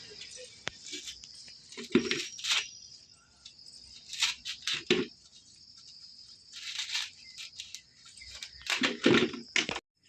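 Scattered rustling and handling noises: short scrapes and a few soft knocks at irregular intervals, over a faint steady high-pitched tone.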